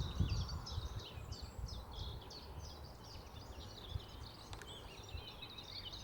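Wild birds singing, a continuous stream of quick high twittering chirps, over wind buffeting the microphone with low rumbling gusts that are strongest at the start.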